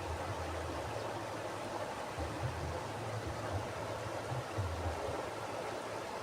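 Mountain river flowing: a steady rush of water with an uneven low rumble underneath.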